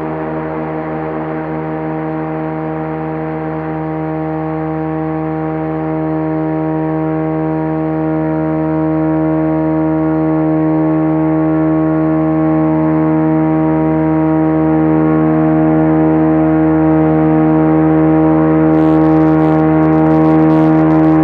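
Mars helicopter dual-rotor system with carbon-fiber blades spinning at high speed: a steady, siren-like hum of several held tones that slowly grows louder, with a brief wobble in pitch at the very end.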